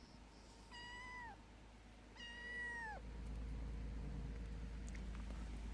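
A cat meowing twice, two short calls about a second apart, each dropping in pitch at its end. A steady low rumble comes in about three seconds in.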